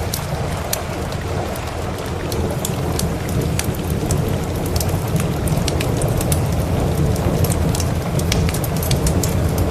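Steady heavy rain with a deep rolling rumble of thunder that swells about three seconds in and keeps building, over scattered sharp crackles from a wood fire.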